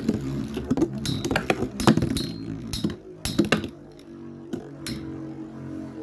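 Two Metal Fight Beyblade spinning tops, Storm Pegasis and Dark Wolf, clashing in a stadium: rapid sharp clacks of metal wheels striking each other and the stadium walls over a steady whirring drone of the spinning tops. The hits come thick and fast, then thin out to a few after about three and a half seconds while the drone carries on.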